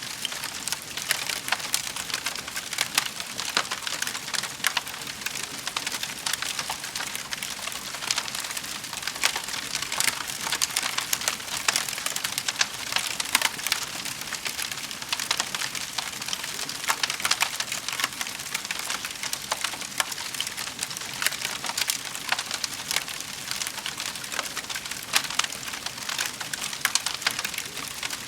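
Wood fire burning in a fireplace, crackling steadily with many small, irregular pops and snaps over a soft hiss.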